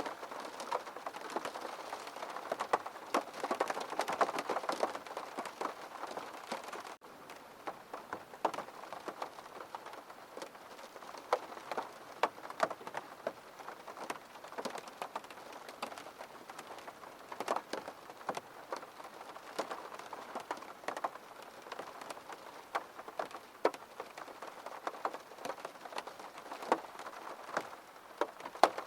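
Rain falling steadily on a window pane: a dense patter of separate drops tapping the glass over a soft hiss, with a momentary dropout about seven seconds in.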